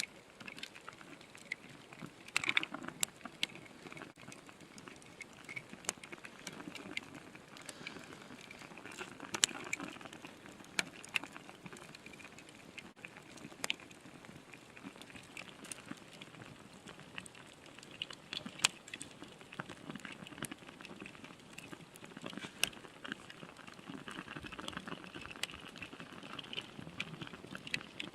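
Wood fire crackling, with irregular sharp pops and snaps over a soft hiss of burning.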